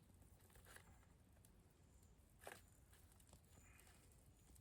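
Near silence with a low background hiss, broken by a few faint ticks and one slightly louder click about halfway through.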